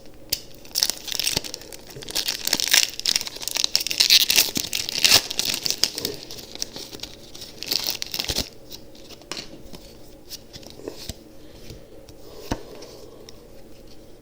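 Foil booster-pack wrapper being torn open and crinkled, with dense crackling for the first eight seconds or so. Then quieter rustling and a few light taps as the cards are handled.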